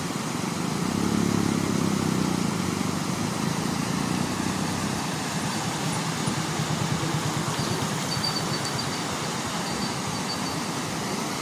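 Floodwater rushing steadily over a bridge, with a vehicle engine running close by, loudest a second or two in and settling into a low rapid putter before fading under the water noise.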